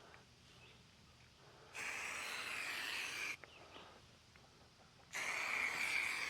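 Aerosol can of marking paint spraying a line on the ground: two steady hisses of about a second and a half each, the second starting about five seconds in.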